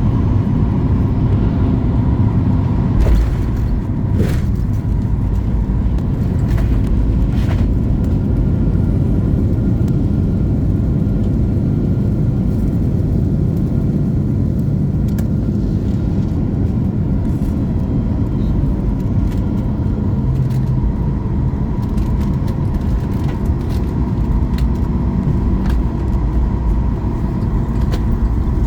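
Airliner cabin noise: a steady low rumble with a faint steady tone above it, and a few sharp knocks between about three and seven seconds in.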